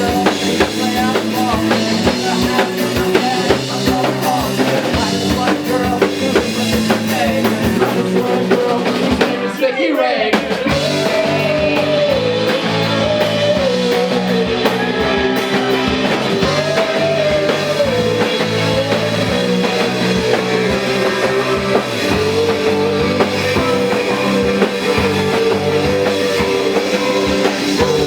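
Live rock band playing an instrumental passage: drum kit, bass and electric guitars. About ten seconds in the music briefly breaks off with a falling sweep, then a wavering melody line carries on over the band.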